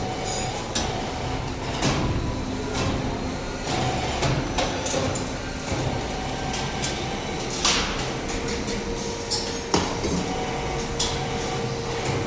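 Metal-working machinery running in a workshop: a steady hum under irregular metallic knocks and clanks, with a few short hisses.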